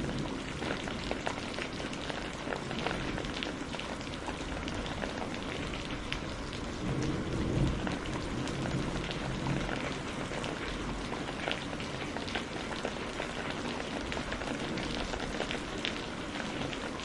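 Steady rain falling, a dense hiss with many separate drops pattering on a surface. A low rumble swells about halfway through.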